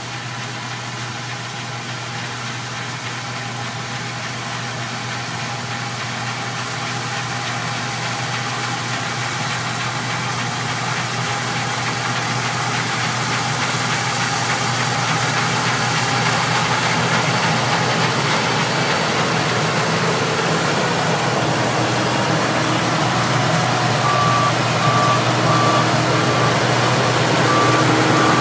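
Case IH 5088 combine running steadily while harvesting soybeans, growing louder throughout. Near the end a beeper sounds in a string of short, evenly spaced beeps.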